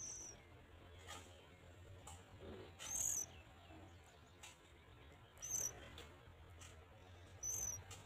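Short, high, thin bird calls, four of them about two seconds apart, the second the longest and loudest, over a faint steady low hum.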